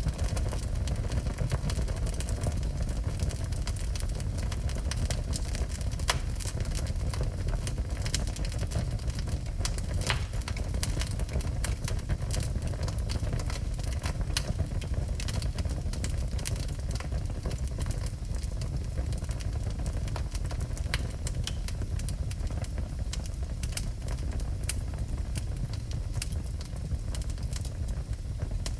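Wood fire burning in a fireplace: a steady low rumble of the flames with frequent sharp crackles and pops of burning wood.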